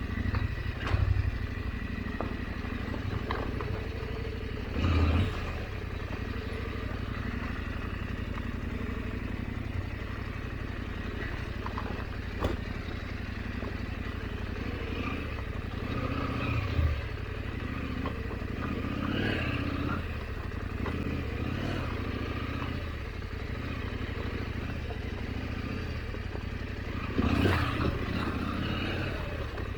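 KTM 890 Adventure motorcycle's parallel-twin engine running steadily at low revs on a slow, rocky trail descent, with scattered knocks and clatter as it rolls over rocks. Louder thumps come about five seconds in and again near the end.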